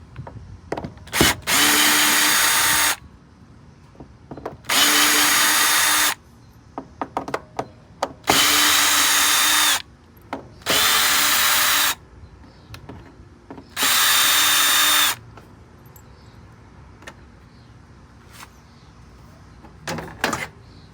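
Power drill driving out bolts in five short runs of a second or so each, its motor whining steadily while it spins, with small clicks and knocks between the runs.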